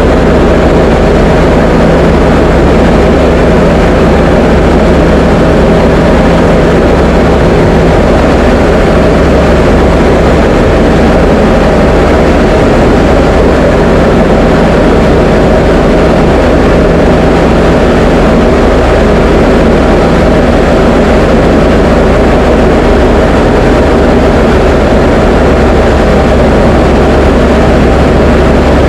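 Diamond DA20 light aircraft's piston engine and propeller droning loud and steady in flight.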